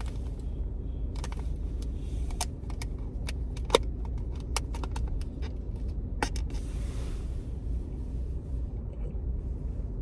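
Steady low vehicle rumble with scattered small clicks and taps, and one sharp click a little under four seconds in.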